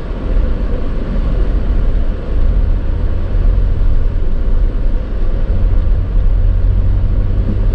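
A Jeep Wrangler's engine and drivetrain running steadily under load as it climbs a snowy hill, heard as an even low rumble from inside the vehicle.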